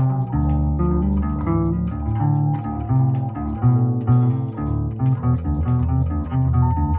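Instrumental rock of several layered electric bass parts in drop D tuning, a low bass line under higher melodic bass lines, over a drum beat with steady cymbal hits. A longer cymbal crash rings about four seconds in.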